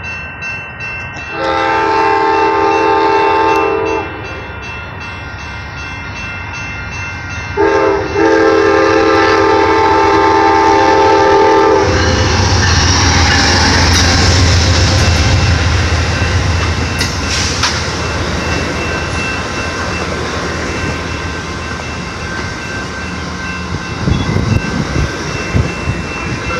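Amtrak P42DC diesel locomotive sounding two long horn blasts, the second about four seconds long, then passing close with a heavy low rumble. Its bilevel passenger cars follow, rolling past steadily, with wheel clicks near the end.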